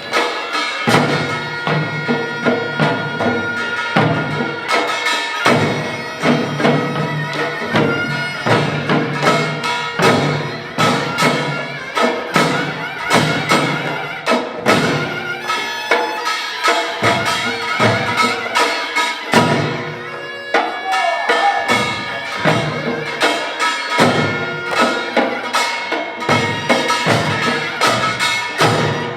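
Korean pungmul ensemble playing: a fast, dense pattern of drum and small-gong strokes, with a sustained piercing reed melody, typical of the taepyeongso shawm, held above it.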